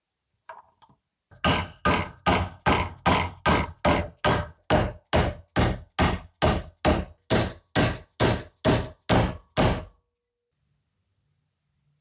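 A hammer striking metal in a steady rhythm: about twenty even blows, roughly two and a half a second, each ringing briefly. The blows start a little over a second in and stop near the end.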